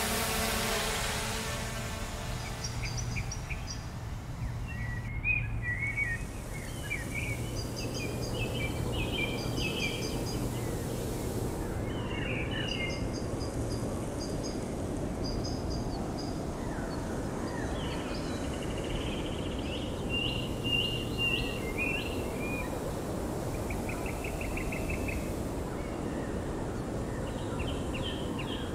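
Small birds chirping and trilling in repeated short phrases over steady low outdoor background noise. An engine-like hum fades out in the first second.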